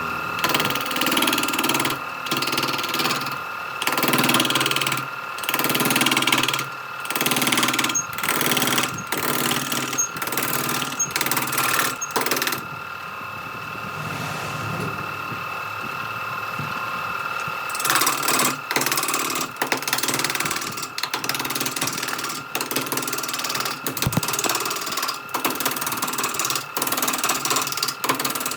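Electric power tool's motor running with a steady high whine, repeatedly biting into wood in short, irregular passes. Near the middle it runs free without cutting for about five seconds, then the cutting passes start again.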